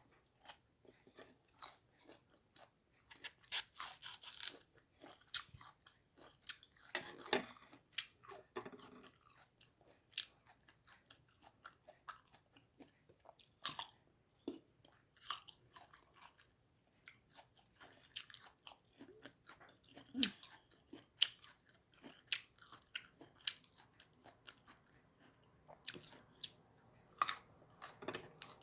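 Close-up mouth sounds of biting and chewing crunchy, firm unripe mango: irregular crisp crunches and wet chewing, with a few louder bites about 4, 7, 14 and 27 seconds in.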